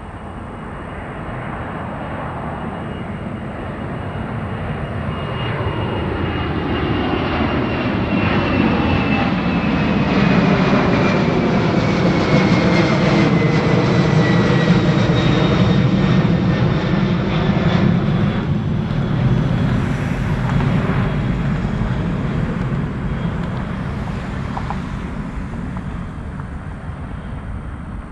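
Jet airliner passing close by. Its engine noise builds to a loud peak around the middle and then fades, and a high engine whine slides down in pitch as it goes past.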